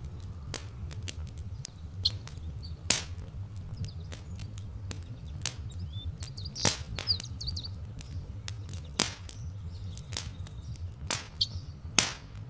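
Log fire crackling with irregular sharp pops over a steady low rumble, while small birds chirp briefly in the background.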